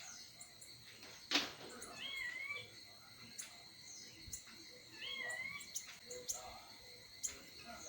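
A small songbird gives two short warbled calls about three seconds apart, with scattered faint chirps and a steady high insect drone underneath. A single sharp click comes about a second and a half in.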